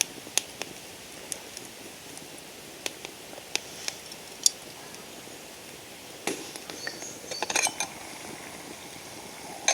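Wood campfire crackling, with scattered sharp pops over a faint steady hiss and a busier run of louder ticks and knocks from about six seconds in.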